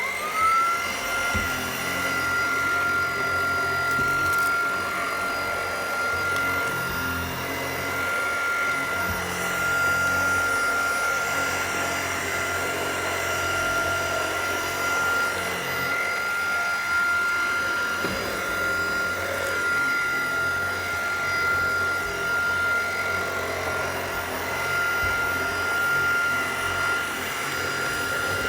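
Tineco cordless stick vacuum switched on, its motor spinning up to a steady high whine within the first second. It then runs continuously with the direct-drive powerhead fitted, vacuuming stairs.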